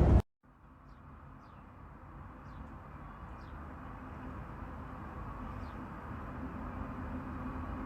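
A loud rushing noise cuts off just after the start. Then a low steady rumble slowly grows louder, with short faint chirps of a small bird about once a second.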